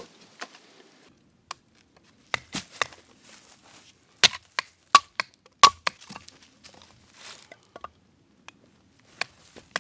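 Axe chopping and splitting firewood: a run of irregular sharp wooden strikes, about a dozen, the loudest a little after four, five and five and a half seconds in.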